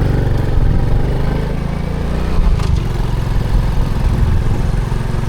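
Motorcycle engine running steadily while the bike is being ridden.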